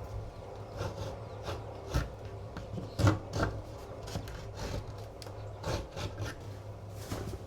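A hand tool working a mahogany board, scraping and rubbing in uneven strokes about once or twice a second, over a steady low hum.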